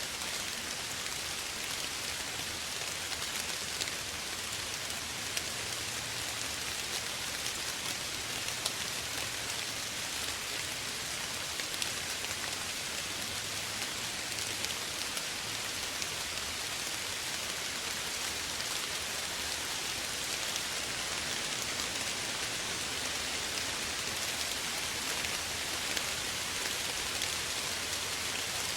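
Steady gentle rain falling, an even hiss with scattered drops pattering on surfaces.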